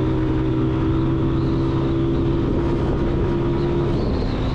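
Honda CG125 single-cylinder four-stroke motorcycle engine running under way, a steady engine note over a rush of riding noise. The note changes about four seconds in.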